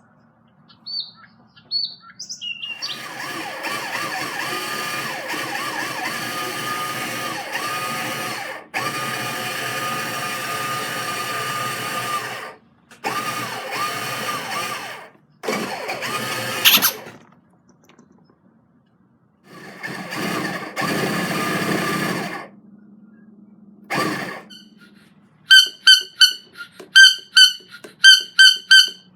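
Toy car making its noise in several bursts, each a few seconds long, ending abruptly. Near the end a squeaky toy is squeezed quickly about ten times, giving sharp high squeaks.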